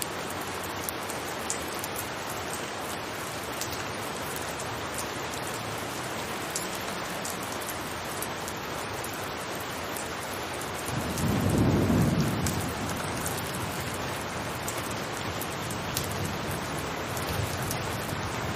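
Steady rain falling on a roof, with scattered sharp ticks of single drops. About eleven seconds in, a low rumble of thunder swells and fades over two seconds or so.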